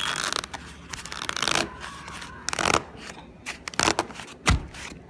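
Cardboard box of cornstarch being squashed and folded flat by hand: a run of crinkling, scraping handling noises, with a heavier thump about four and a half seconds in.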